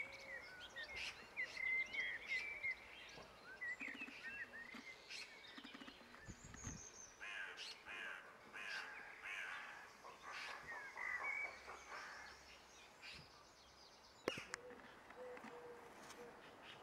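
Birds chirping and calling in many short notes, with a denser run of calls in the middle. A single sharp click comes near the end.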